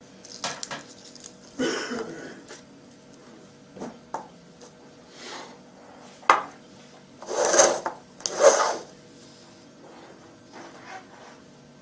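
Irregular clattering and scraping: a few sharp knocks and several short noisy scuffles, the loudest near the middle.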